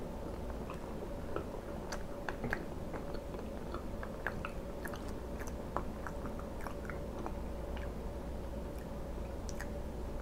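A person chewing soft cooked egg, with many small, irregular mouth clicks and smacks.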